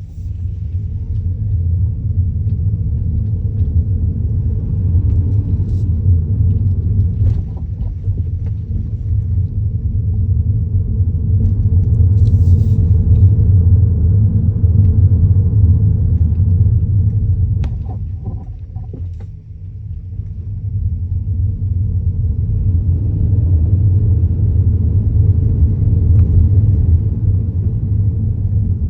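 A new Kia Niro being driven, with steady low road rumble and a few short knocks: the clunk or rattle over speed bumps whose cause Kia dealers have not found.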